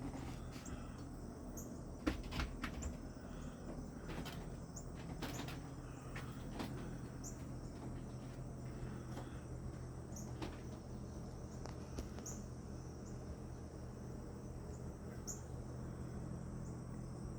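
Quiet outdoor ambience: faint, short high insect chirps every second or two over a steady high drone and a low hum. A few soft clicks come in the first seven seconds.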